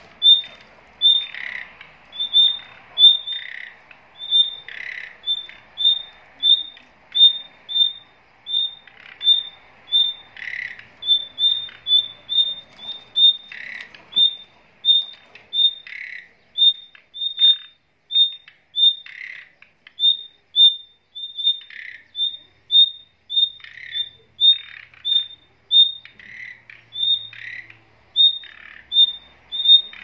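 Caged songbirds calling: a short high call repeated evenly about twice a second, with lower, rougher chirps mixed in every two to three seconds.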